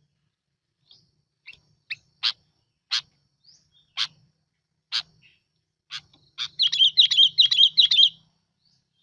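Bulbul song on a lure recording: a string of short, sharp chirps about one a second, then a quick, loud warbling phrase of rapidly repeated notes near the end.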